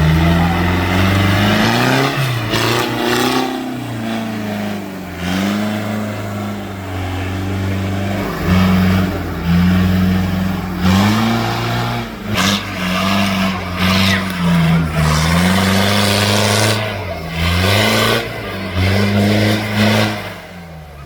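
Tractor engine revving repeatedly, its pitch rising and falling every second or two, with short noisy surges at times.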